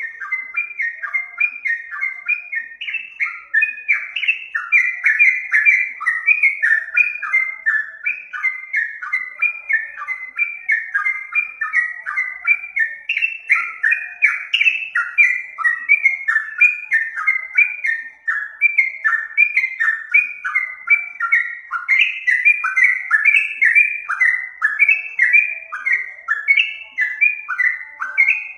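Yellow-vented bulbul (trucuk) singing: a continuous stream of quick, falling whistled notes, several a second, without a break.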